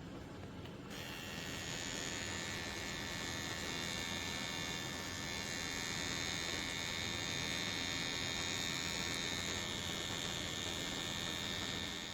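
A oneisall electric pet clipper switches on about a second in and runs steadily with a high whine over a low hum.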